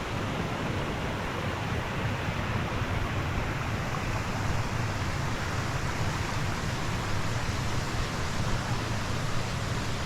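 Steady rushing of flowing water, like a mountain stream running over rocks.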